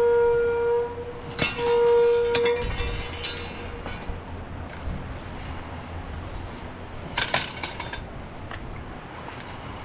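Warning horn at the water's edge sounding in long steady blasts, one ending about a second in and another about two and a half seconds in, signalling that the water is about to come up. Some sharp clattering knocks sound during the second blast and again around seven seconds.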